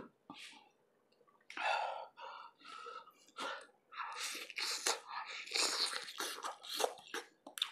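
Close-miked eating sounds: a person slurping, sucking and chewing on lobster eaten by hand, in a run of irregular wet, breathy bursts and small clicks.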